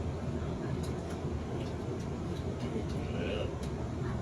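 Steady low rumble of a passenger train running along the track, heard from inside the carriage, with a few faint light clicks.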